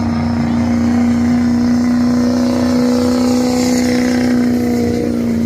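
Diesel pickup truck engine held at high, steady revs, running hard under load as in a truck-pull run.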